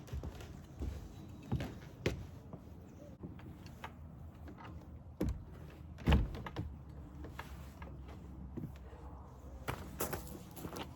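A series of irregular knocks and thumps, the loudest about six seconds in, with a second strong one just before it.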